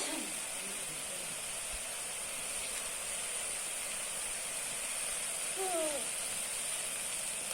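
Kulekhara greens frying in hot oil in a kadai, a steady sizzling hiss. A short falling squeak about six seconds in.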